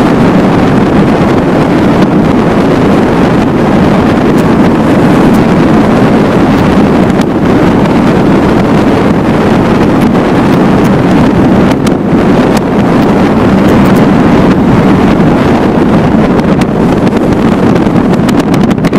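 Motorboat under way: the engine runs at a steady speed with water rushing past the hull, and wind buffets the microphone throughout.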